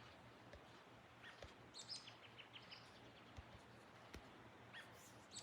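Faint bird calls: scattered short high chirps, with a quick run of about six chip notes a couple of seconds in and another call near the end, over quiet outdoor background.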